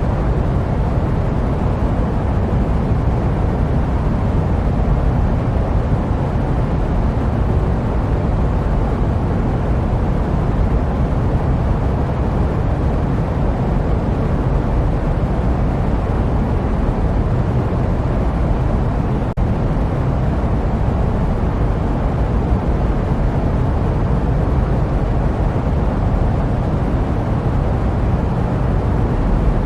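Steady jet aircraft noise used as white noise: an even, unbroken rumbling hiss weighted toward the low end, with one very brief dip about nineteen seconds in.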